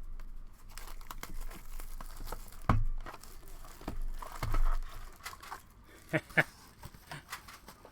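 Plastic wrapping crinkling and tearing, with small clicks and rustles, as a sealed box of trading card packs is opened and handled.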